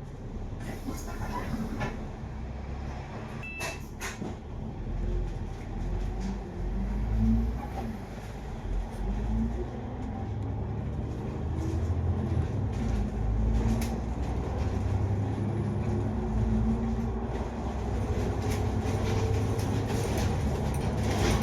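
Double-decker diesel bus running, heard from inside the passenger cabin: a low engine rumble whose note climbs several times as the bus pulls away and accelerates, with scattered rattles and clicks from the bodywork.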